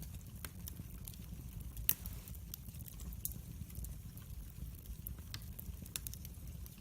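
Wood fire in a fireplace crackling: scattered sharp pops and snaps over a low steady rumble, the loudest pop about two seconds in.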